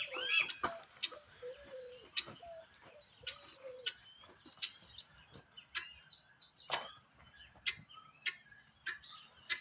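Birds chirping: many short, quick calls that keep repeating, with a few lower sliding notes early on, and a few sharp knocks, the loudest about seven seconds in.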